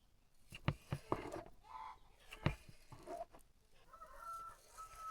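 A few sharp knocks of a knife on a cutting board as boiled pork is sliced, with chickens clucking faintly between the knocks.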